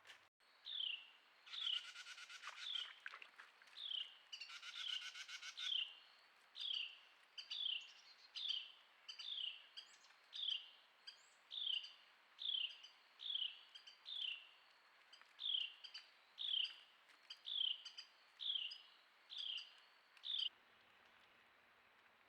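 A bird calling: one short, falling whistled note repeated a little more than once a second, with two harsh, buzzy calls in the first few seconds.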